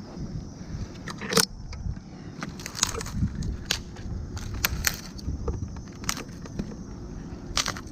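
Tree-climbing gear clinking and knocking as a climber shifts position in a dead tree: about a dozen sharp, irregular clicks over low rumbling handling noise.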